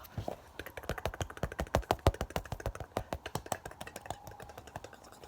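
Rapid, close-miked taps, many a second, loudest around the middle and stopping shortly before the end.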